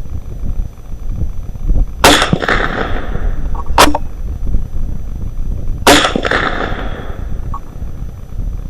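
.22 LR rifle shots: a crack about two seconds in and another about four seconds later, each with a short echo trailing off, and a shorter, sharper crack between them.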